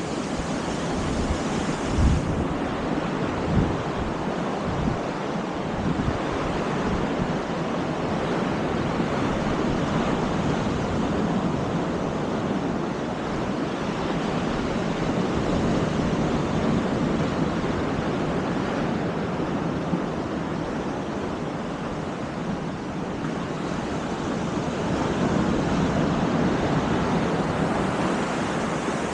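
Baltic Sea surf washing onto the beach in a steady rush that swells and eases a few times, with wind buffeting the microphone in a few low thumps in the first few seconds.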